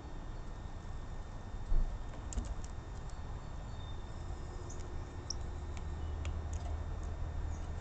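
Starling making scattered soft clicks and a few brief high squeaks over a low rumble, with one loud knock about two seconds in.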